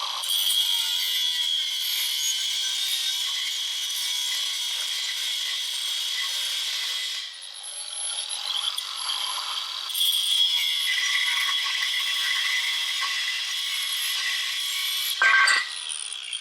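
A power tool cutting or grinding steadily through metal, most likely freeing tack-welded parts, with a steady high whine in the noise. It eases off for a few seconds around the middle, then a sharp metallic clank comes near the end.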